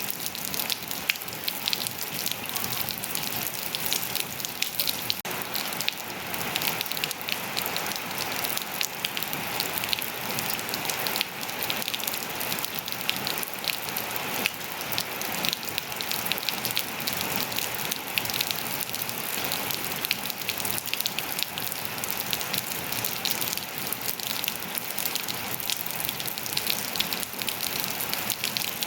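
Steady rain falling and pattering on surfaces, a dense even patter of many drops with no let-up.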